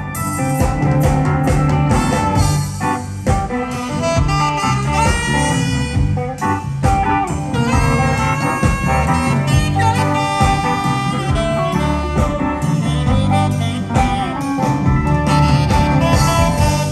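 Live blues band playing an instrumental break between sung verses: a wavering lead melody over bass, guitar and a steady drum beat.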